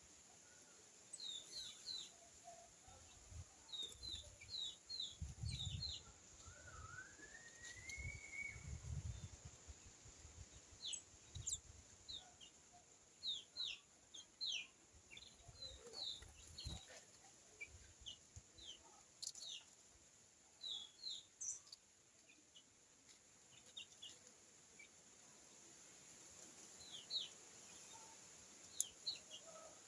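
Small birds chirping: many short high chirps scattered throughout, with one longer rising call about seven seconds in. Low rumbles come in between about five and ten seconds.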